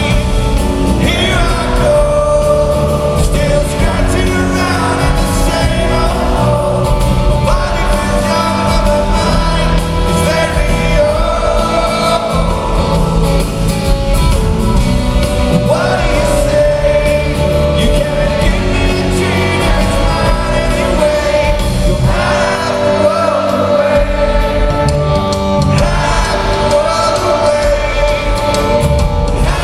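Live rock band playing a song with a lead vocal.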